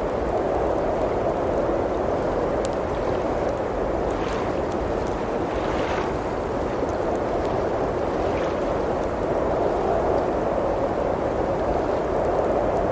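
Blizzard wind blowing steadily in a low, even rush, with a few soft pops from a crackling wood fire.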